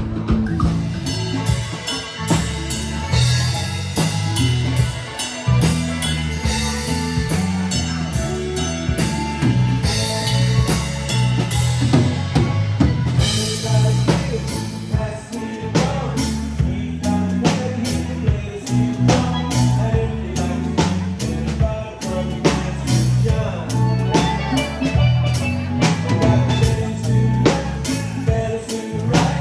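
Live band music in an instrumental stretch, with a steady drum-kit beat and a repeating bass line.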